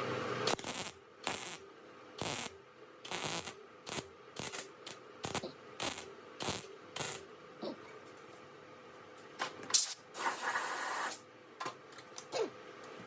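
Gas-shielded MIG welder tack-welding a steel patch plate into a car's strut tower: about a dozen short bursts of arc, each under a second, then a longer bead of about a second near the end.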